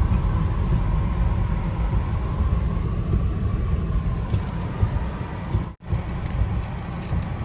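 Steady low rumble of a vehicle in motion, with a faint wavering whine above it; it breaks off for an instant nearly six seconds in.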